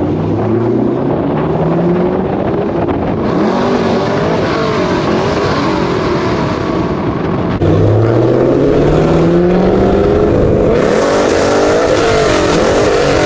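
Muscle-car V8 engines running hard and accelerating, the engine note climbing twice. The second climb, about eight seconds in, is suddenly louder.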